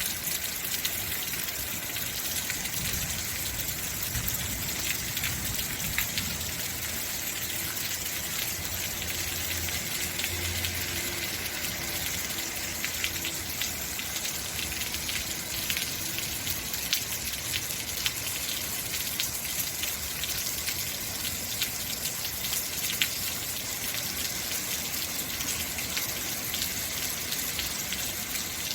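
Heavy rain falling steadily, a dense hiss with many sharp individual drop impacts. A faint low rumble sits under it in the first half.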